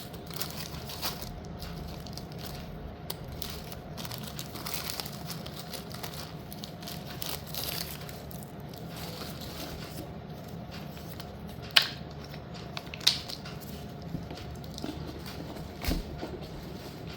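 Rustling and crinkling as packaged slate-pencil pieces are handled and sorted, with light ticks and three sharp clicks in the last third as hard slate pieces knock together.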